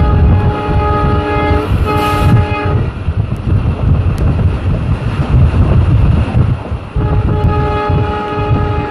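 Express train passing at speed with a heavy low rumble, its locomotive horn sounding a chord of steady tones for the first three seconds and again from about seven seconds in. A short hiss cuts in about two seconds in.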